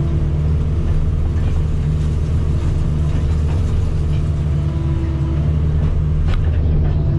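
Diesel engine of a piece of heavy earthmoving equipment running steadily, with one sharp click about six seconds in.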